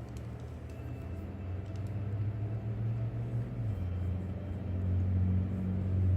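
A steady low rumbling hum that grows gradually louder, with a few faint light clicks.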